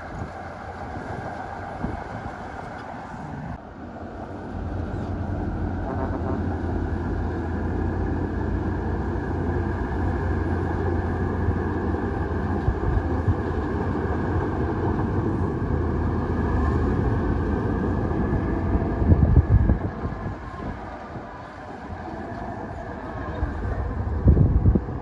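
Heavy diesel earthmoving machinery running steadily, getting louder about four to five seconds in, with heavy low thumps at about nineteen seconds and again just before the end.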